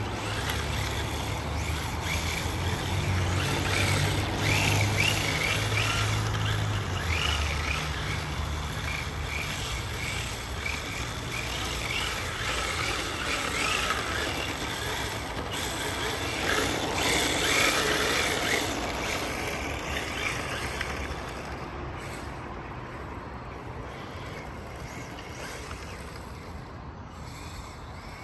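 RC drift car's electric motor whining as it is driven, with its hard plastic tyres sliding and scrubbing as it drifts. The sound is strongest in the first two-thirds and gets fainter after about 20 seconds.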